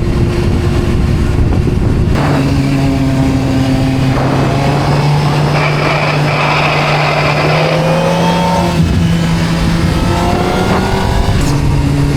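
A vehicle engine running at a fairly steady speed, its pitch shifting a few times, with a rushing noise beneath it.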